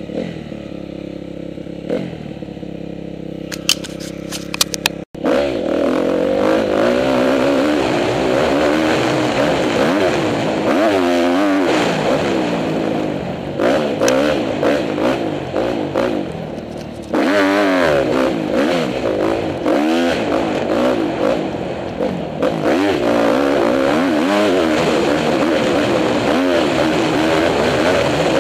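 Honda CRF250R four-stroke single-cylinder dirt bike engine being ridden. It runs quieter and steadier for about five seconds, then switches abruptly to loud riding, the revs rising and falling again and again as the throttle opens and closes.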